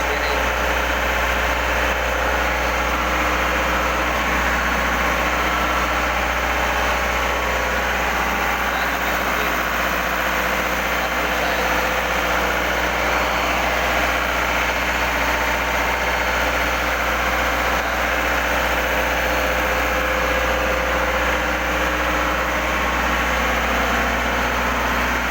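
Engine-room machinery running steadily: a constant loud drone with a deep hum underneath and no change throughout.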